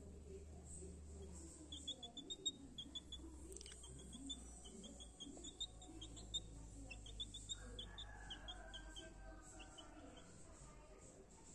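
Bird chirping: quick runs of short, high-pitched chirps, several a second, with a single sharp click a few seconds in.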